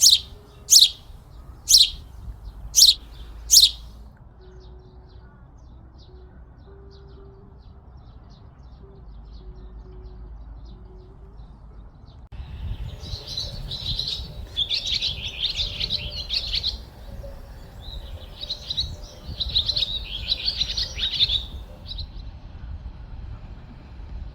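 Wild birds calling over a low wind rumble. First come five sharp, downward-sweeping calls about a second apart, then faint chirps. About halfway through, two long bouts of rapid twittering follow.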